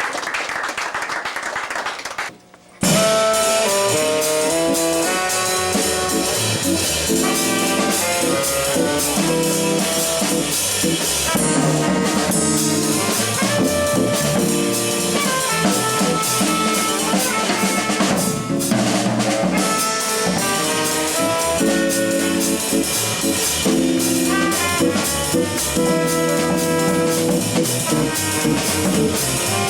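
Live jazz combo: trumpet melody lines with tenor saxophone over organ and a drum kit with rimshots. The music comes in abruptly about three seconds in, after a brief stretch of room noise and a short drop-out.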